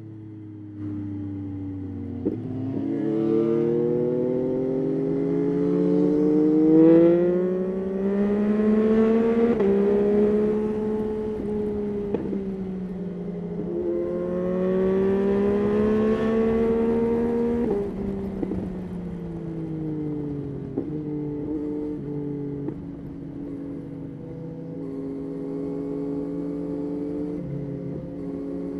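Yamaha Tracer 9's 890 cc inline-three engine under way, engine speed rising several times and dropping sharply at gear changes, then running steadier with small shifts before climbing again near the end, with wind rushing over the microphone.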